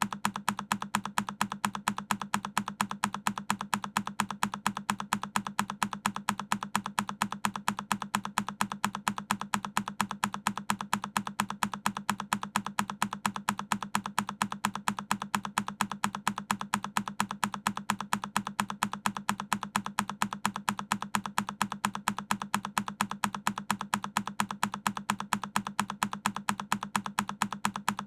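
A single key press on a Keychron K10 mechanical keyboard, looped and repeating at an even, rapid pace. Each press is the same sharp click.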